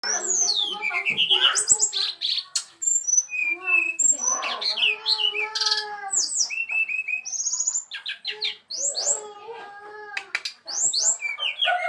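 Brown-chested jungle flycatcher singing a long, varied song of whistled slurs, quick trills and chattering notes, some high and some low.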